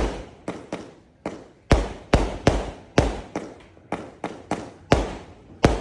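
Fireworks going off in a rapid, uneven series of sharp bangs, about three a second, each with a short echoing tail.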